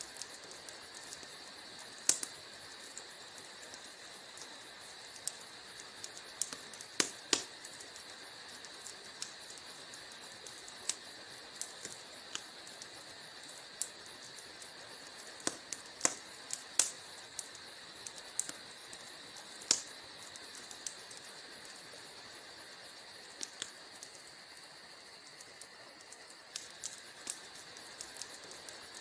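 Wood fire burning in a fireplace, crackling: irregular sharp pops and snaps over a steady hiss.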